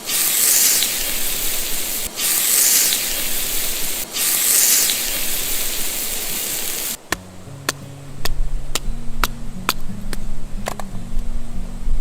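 A loud hiss that swells three times, about two seconds apart, then cuts off abruptly about seven seconds in. It gives way to music with low sustained notes and sharp ticks.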